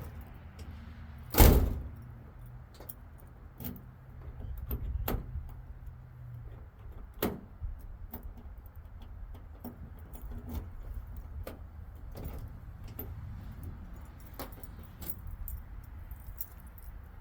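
Small metal clicks and clinks of interior door-handle and lock hardware being worked into a car door, with one loud knock about a second and a half in.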